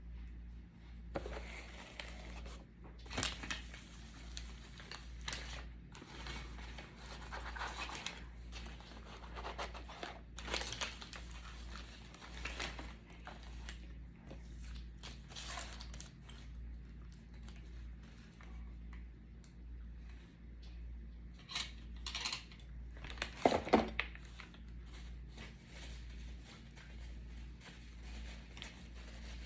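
Intermittent rustling and crinkling of fast-food wrappers and containers, with small knocks and clicks as the food is handled. A quick cluster of sharp knocks about three-quarters of the way through is the loudest moment.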